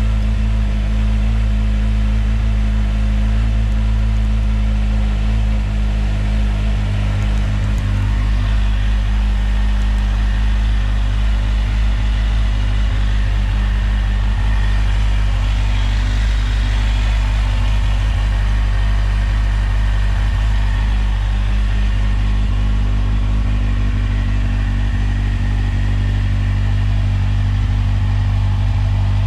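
Kawasaki Z1000's inline-four engine idling steadily through an aftermarket SC Project slip-on exhaust, loud.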